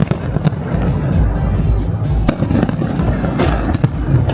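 Big fireworks display: a dense run of bangs and crackling bursts over low booming, with music playing along.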